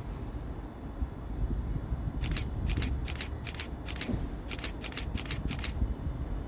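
A container freight train hauled by a class 66 diesel locomotive passes slowly with a steady low rumble. In the middle come about nine short, sharp, high-pitched clicks in quick succession, in two groups.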